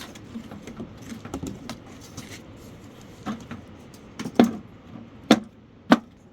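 Soft rustling and handling noise, then from about three seconds in a run of sharp knocks, a little under one a second and growing more regular toward the end.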